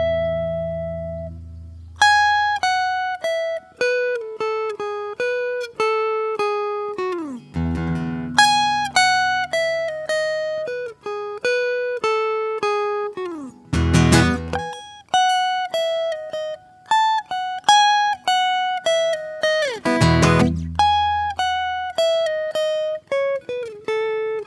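Solo acoustic guitar playing a slow improvised melody of single plucked notes, with notes sliding down in pitch twice and a chord strummed twice, about 14 and 20 seconds in.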